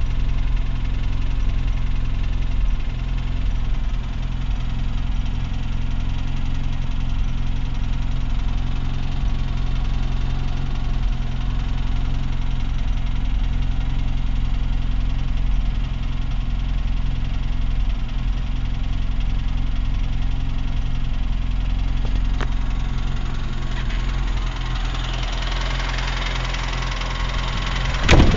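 UAZ engine running at idle with an extraneous knock, the fault the owner is trying to track down. The sound grows brighter toward the end, with a sharp loud hit at the very end.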